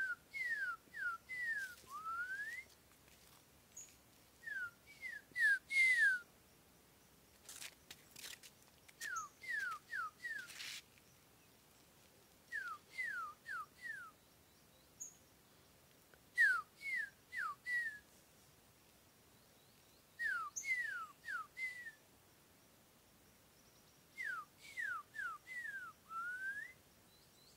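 Green-winged saltator (trinca-ferro) singing: short phrases of three to five clear whistles, each note sliding down in pitch, some phrases ending on a rising note, repeated every three to four seconds.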